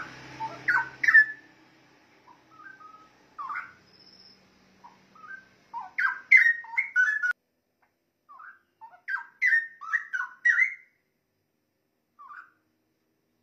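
Straw-headed bulbul (cucak rowo) singing: phrases of quick, rich gliding notes, given in bursts with short pauses between.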